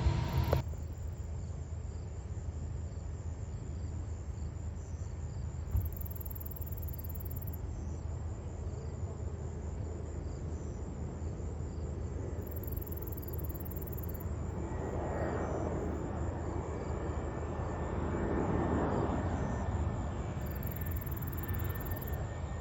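Distant jet aircraft rumbling steadily, swelling louder for a few seconds about two-thirds of the way through, with insects chirping in repeated high bursts.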